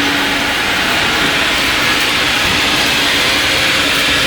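Self-serve car wash spray wand spraying pre-soak onto a car's wheel well: a loud, steady hiss of water spray with a faint steady hum underneath.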